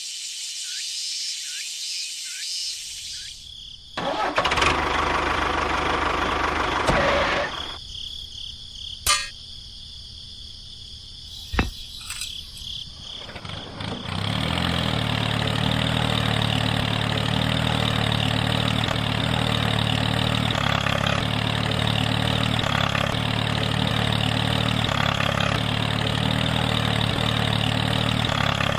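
An engine starts up, with a couple of sharp knocks along the way, then runs steadily through the second half.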